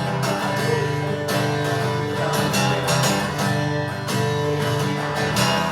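Acoustic guitar strummed in a steady rhythm, an instrumental passage closing a song after the last sung line.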